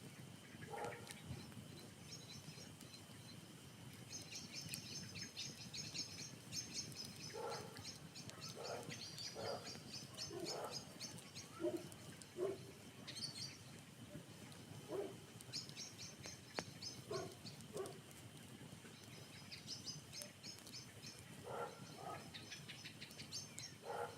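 Birds chirping in rapid chattering series, with shorter, lower calls coming every second or two and a steady high tone underneath.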